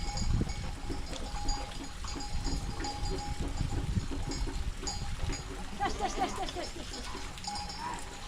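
A flock of goats and sheep bleating, with many short calls throughout and a louder cluster of bleats near the end, over a low rumble.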